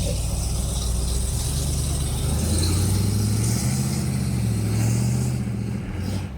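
Monster truck engine running and revving up, its pitch climbing for a few seconds before easing off near the end.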